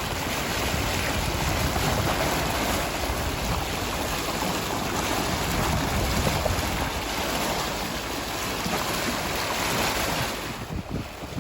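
Wind and sea water rushing past a small sailboat under way, with wind buffeting the microphone; steady noise that eases a little near the end.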